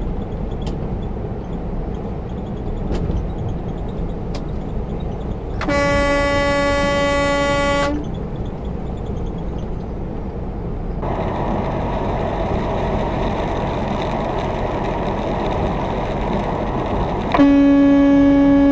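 Truck horn sounding in two steady blasts, about two seconds long some six seconds in and a shorter, louder one near the end, over continuous engine and road noise in the cab. The engine and road noise grows louder about eleven seconds in.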